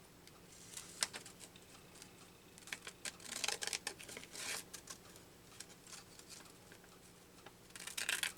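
Scraps of collage paper rustling and crinkling as they are handled on a tabletop, in a few short spells, with a sharp tap about a second in.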